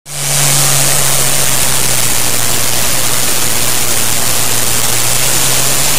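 Loud, steady engine noise of a pulling tractor at high throttle, dense with a low drone, fading out at the end.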